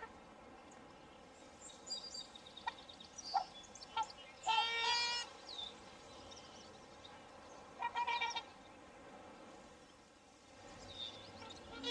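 Swans calling: two nasal honks, the first nearly a second long about four and a half seconds in, a shorter one about eight seconds in. Small birds chirp in short high notes around them.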